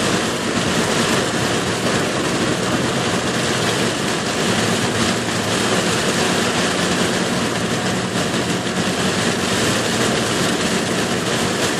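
Steady noise inside a car driving at about 40 mph through very heavy rain: rain pouring on the roof and windshield mixed with wet tyre and road noise, with a low engine hum underneath.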